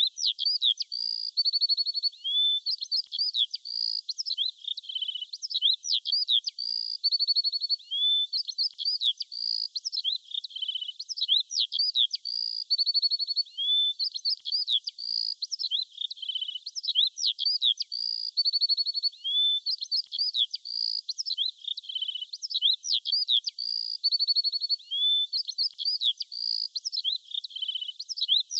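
Small songbirds chirping with quick high-pitched notes and short trills, the same pattern of calls repeating every few seconds.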